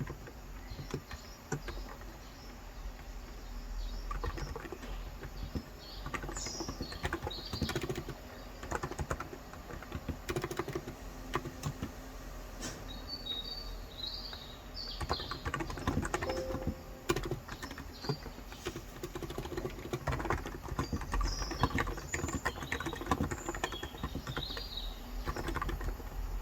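Continuous fast typing on a Cox Endeavour electrostatic capacitive (Topre-style) tenkeyless keyboard with light 35 g keys, a dense, irregular patter of soft key strokes. Small birds chirp outside now and then, in short spells.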